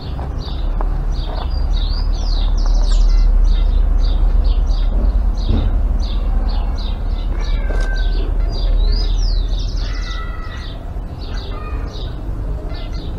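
Birds chirping over and over, with a couple of quick trilled calls among the chirps, over a steady low rumble.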